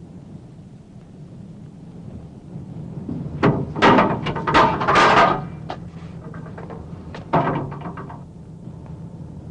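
A dense cluster of clattering knocks about three and a half seconds in, lasting a couple of seconds, then a shorter burst near eight seconds, over a low steady hum.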